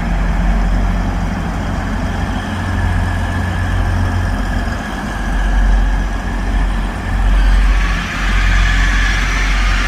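A diesel train's engines rumbling at the platform. Squealing tones come in over the rumble near the end, which sound squeaky to those on the platform.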